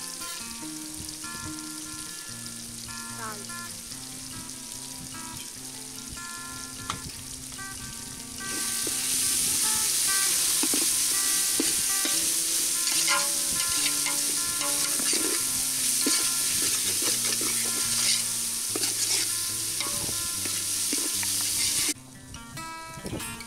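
Sliced onions, tomatoes, green chillies and spice powders sizzling in hot oil in a steel pot while a ladle stirs and scrapes against the pot. The sizzling grows much louder about a third of the way in and cuts off abruptly near the end, with background music throughout.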